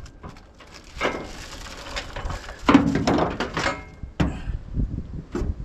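Heavy fifth wheel hitch being shifted into position by hand: irregular scraping and knocking, with a couple of sharp knocks near the end.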